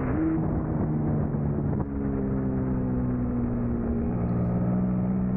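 Suzuki SV650's 90-degree V-twin engine under race load, heard onboard with wind rush. Its pitch dips and recovers in the first half second, jumps sharply with a click about two seconds in as the gear changes, then sinks slowly and steps down again.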